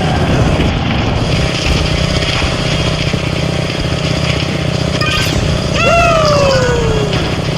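Motorcycle engine running steadily on the move, with road and wind noise. About six seconds in, a loud pitched tone jumps up and then slides slowly down over a second or so, starting again at the very end.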